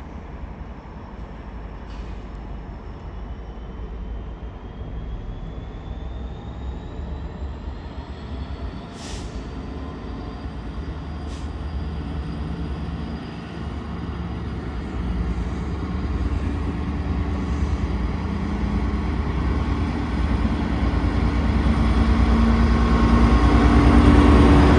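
A train approaching and growing steadily louder, with a high whine rising in pitch over the first several seconds, a couple of sharp clicks around the middle, and a deepening rumble as it draws close.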